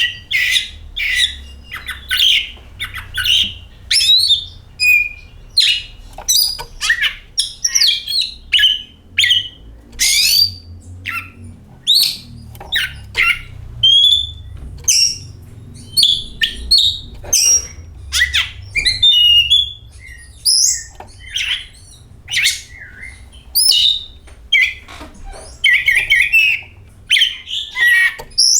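Oriental magpie-robin singing a long, varied song of short whistles, chirps and sliding notes in quick succession with hardly a pause, over a faint low rumble.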